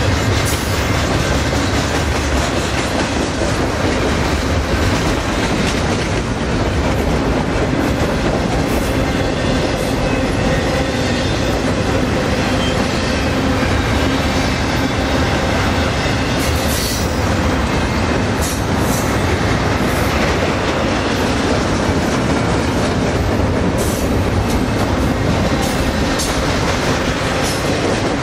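Double-stack container train's well cars rolling past: a steady, loud rumble of steel wheels on rail, with scattered sharp clicks, mostly in the second half.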